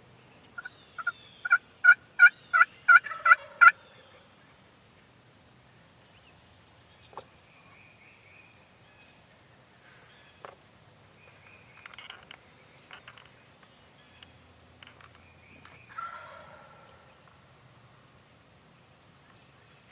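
Turkey yelping: a run of about ten quick, evenly spaced notes in the first few seconds, growing louder, ending in a falling note. Fainter calls and a few clicks follow, with a louder falling call near the end.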